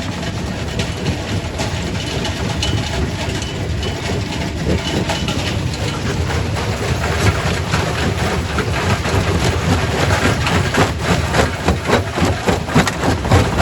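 Primary rock crusher working: a steady heavy machinery rumble under dense clattering and cracking of rock being broken. The knocks grow thicker and louder in the second half.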